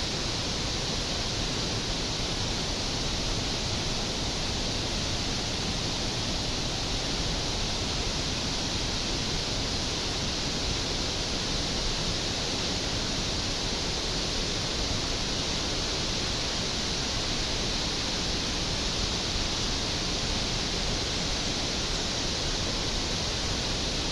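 Steady, even rushing noise, with no breaks or changes.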